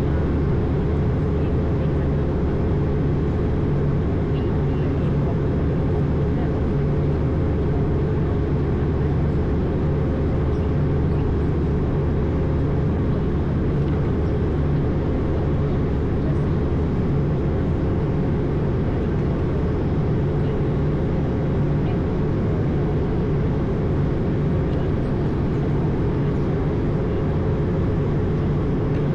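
Steady in-flight noise of an Airbus A220 heard from the cockpit: airflow and its Pratt & Whitney PW1500G geared turbofans running at an even setting, with a low drone and a faint steady tone, unchanging throughout.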